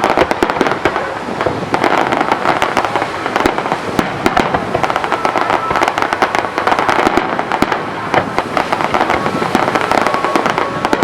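Fireworks display going off without a break: a dense, continuous barrage of bangs and crackling, many reports a second.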